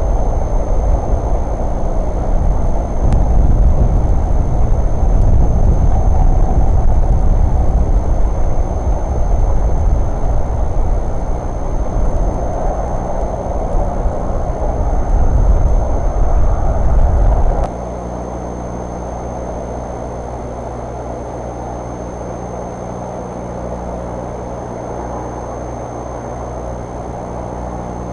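An engine running with a heavy low rumble that drops suddenly about eighteen seconds in to a quieter, steady hum.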